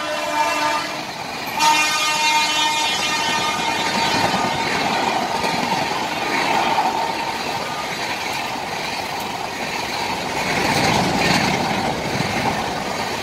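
Passenger express train passing at high speed. The electric locomotive's horn fades at the start and sounds again about a second and a half in, then dies away over a couple of seconds. After that comes the steady rushing rumble and rattle of the coaches going by close to the platform.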